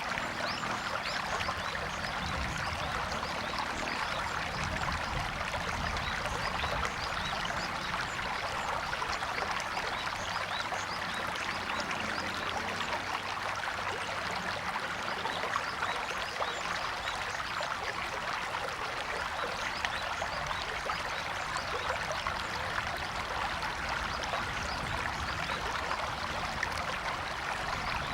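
River water flowing and splashing steadily over rocks.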